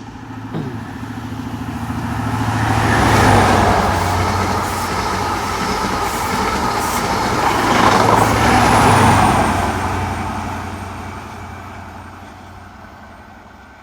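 CrossCountry HST, an InterCity 125 with a Class 43 diesel power car at each end, passing through at speed. A steady diesel drone and wheel-on-rail rushing swell up as the leading power car goes by about three seconds in, stay loud as the carriages pass, and peak again when the rear power car passes. Then the sound fades away.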